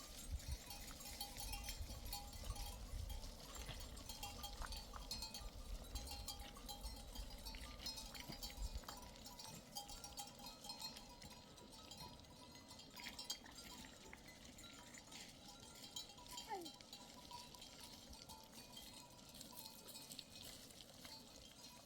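Bells on a grazing flock of sheep and goats clinking and ringing irregularly, with an occasional short bleat.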